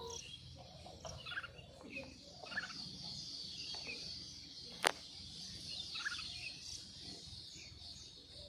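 Faint birdsong outdoors: scattered short chirps over a steady, high-pitched background chorus. One sharp click about five seconds in.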